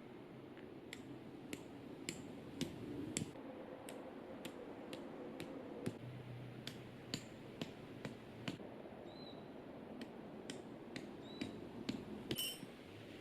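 Irregular sharp clicks and taps, a little over one a second, from tent gear being handled while a small tent is pitched, with one ringing, metallic-sounding click near the end.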